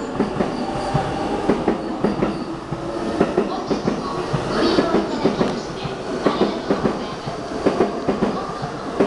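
Keihin-Tōhoku Line E233 series electric train running past the platform as it departs, its wheels clacking over the rail joints as the cars go by.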